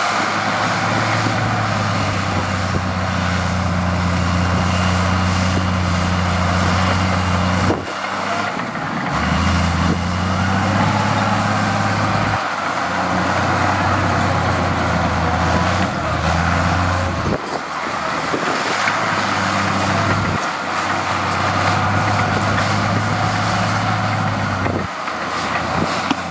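Heavy diesel earthmoving machinery running, a steady low engine drone over loud mechanical noise. The drone breaks off and changes abruptly several times.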